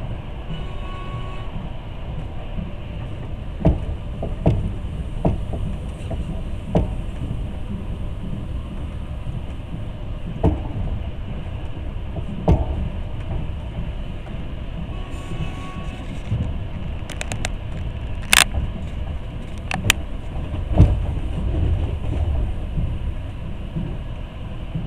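Passenger train carriage running along the track, heard from inside the car: a steady low rumble broken by about a dozen sharp knocks at uneven intervals.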